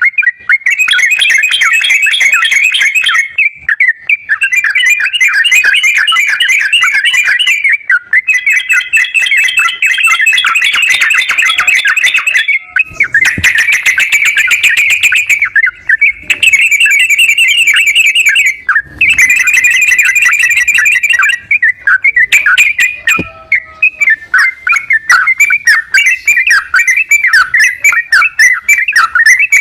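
Yellow-vented bulbul (trucukan) song played as a bait recording to prompt a reluctant bird to sing: rapid, bubbly chattering phrases in stretches of a few seconds, separated by brief breaks.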